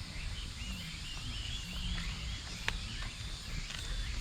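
A small bird's warbling call, rising and falling quickly, over steady outdoor background rumble, with one sharp click a little past halfway.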